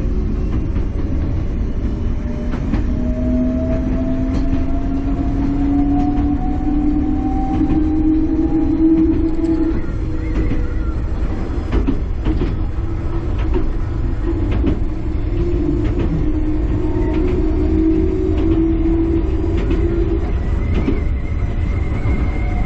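Enoshima Electric Railway train running, heard on board: a steady low rumble with scattered clicks of the wheels over the rails. A motor whine rises slowly in pitch from about two seconds in to about ten seconds in as the train gathers speed, and comes back in the second half. A faint high tone sounds near the end.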